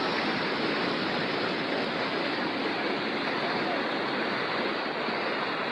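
Floodwater rushing through a street: a steady, even wash of water noise that does not change.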